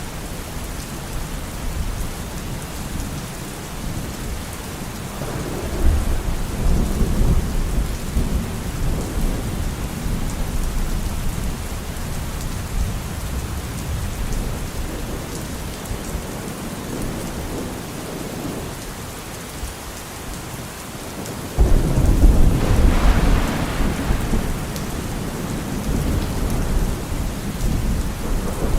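Steady rain with two rolls of thunder: the first builds about five seconds in and rumbles on for several seconds; the second, louder one breaks suddenly a little past twenty seconds in and fades over a few seconds.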